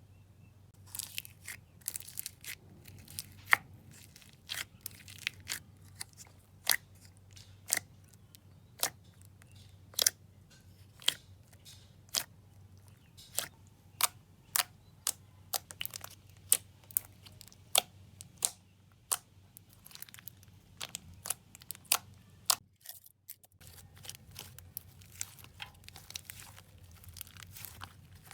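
Slime being squished and worked by hand, giving a run of sharp pops and crackles, one or two a second, with a short silent break late on.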